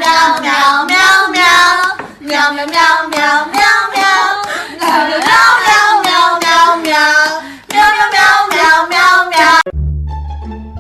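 A high-pitched voice singing in short, wavering phrases, stopping abruptly near the end, where plucked bass-string music comes in.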